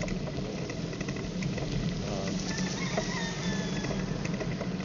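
Steady road traffic noise with a low engine hum, heard from a bicycle on a four-lane road. A brief faint high call comes about two and a half seconds in.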